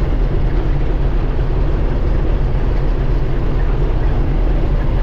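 John Deere 4400 combine running steadily under harvest load: a continuous loud, low drone of engine and threshing machinery.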